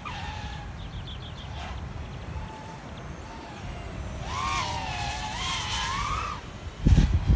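Brushless motors and propellers of a Diatone/Eachine ER349 3-inch FPV quadcopter whining in flight, the pitch rising and falling with throttle and growing louder in the middle. Underneath is a steady low rumble, with heavy low buffeting near the end.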